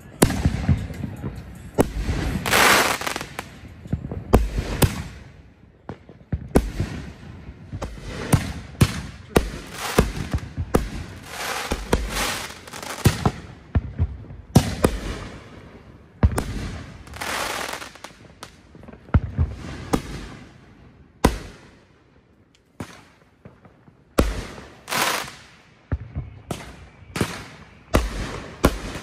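Aerial fireworks going off in rapid succession: many sharp bangs, several with a lingering trail after them, and a lull of a couple of seconds about three-quarters of the way through.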